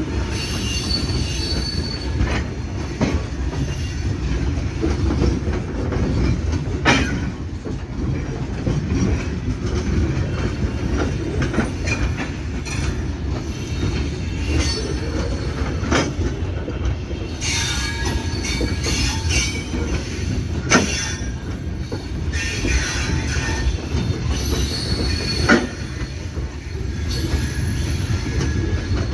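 Freight train wagons rolling slowly past with a steady low rumble of steel wheels on rail. Sharp clanks come every few seconds, and high metallic wheel squeals are thickest about two-thirds of the way through.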